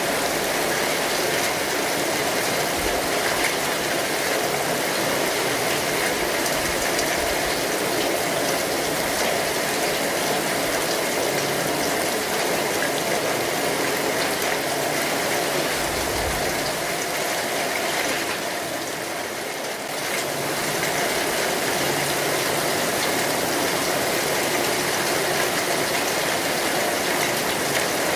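Steady rain falling on an umbrella canopy, a dense, even patter of drops that eases briefly about two-thirds of the way through.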